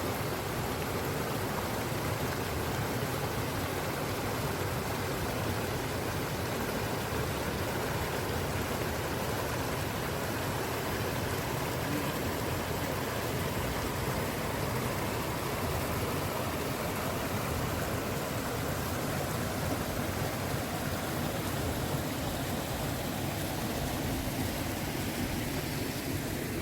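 Steady rushing of flowing stream water, an even noise that holds unchanged throughout.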